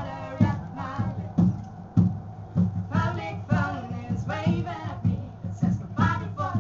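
A band playing a song, with singing over a steady beat of about two strokes a second and a sustained low bass.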